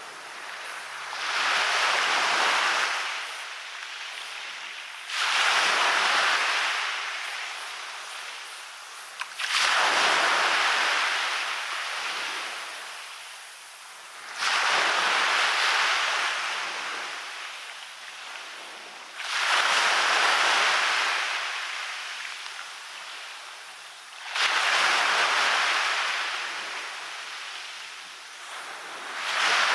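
Small waves breaking on a sandy beach and washing back, a surge of surf about every five seconds that rises quickly and fades away.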